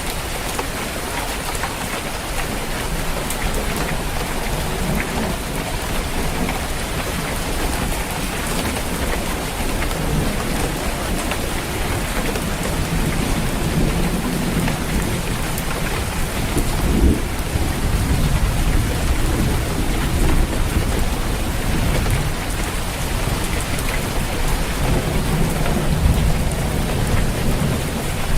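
Steady heavy rain drumming on a roof, with rolling thunder rumbling underneath that grows stronger from about halfway through.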